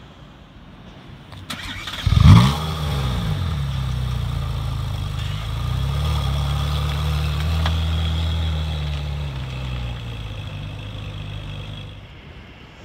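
Ferrari 458 Speciale Aperta's 4.5-litre naturally aspirated V8 cranked on the starter and catching about two seconds in with a sharp rev flare that rises and falls. It then settles into a steady idle that drops a little about ten seconds in.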